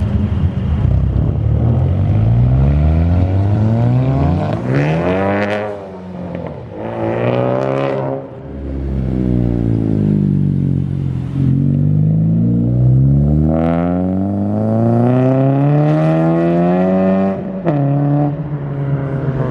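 Car engine revving hard while accelerating away. The pitch climbs steeply and breaks off twice in the first half, then dips and climbs again through a long pull before dropping sharply near the end.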